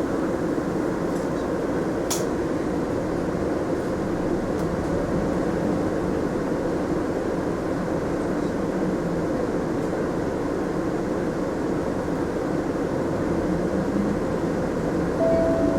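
Interior running sound of a Mitsubishi Fuso Aerostar city bus: a steady engine and road rumble heard from inside the cabin, with a single click about two seconds in.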